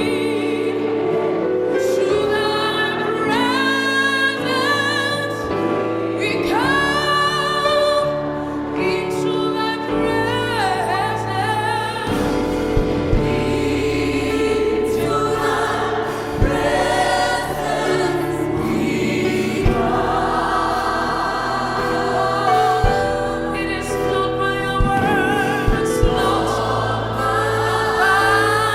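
Gospel choir singing with accompaniment; a bass line and sharp drum hits come in about ten seconds in.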